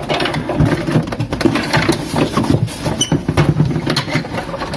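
Hands handling plastic panel parts and wire connectors: a busy run of small clicks, knocks and scrapes over a low steady hum.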